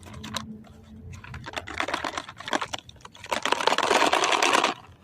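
Snack packaging crinkling as it is handled, a rapid crackle of clicks that builds from about a second in and is loudest from about three and a half seconds in until it stops just before five seconds.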